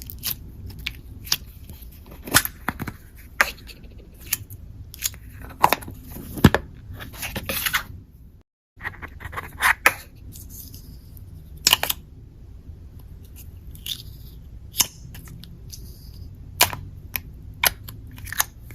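Slime being squished and pressed by hand, giving irregular sharp clicks and pops as air pockets burst. The sound cuts out briefly about halfway through.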